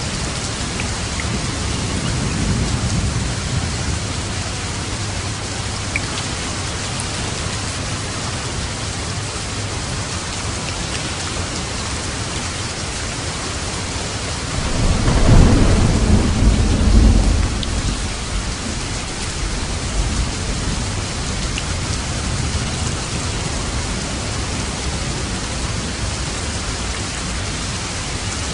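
Steady heavy rain falling, with low thunder rumbling. A faint roll comes a couple of seconds in, and a louder, deeper roll about halfway through lasts some three seconds.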